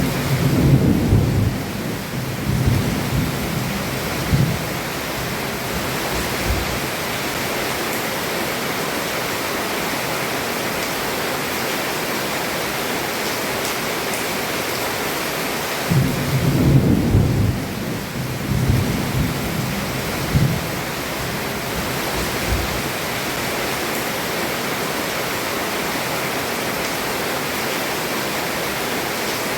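Heavy rain falling steadily, heard from under a roof, with two rolls of thunder: one rumbling for about five seconds at the start and another about halfway through.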